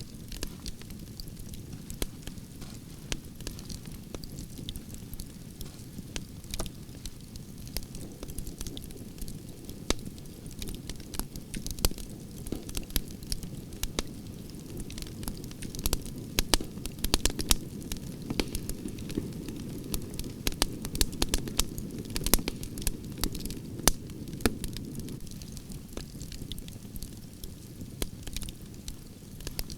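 Campfire of burning branches crackling, with a steady low rush of flames under frequent sharp pops and snaps that come thickest in the middle.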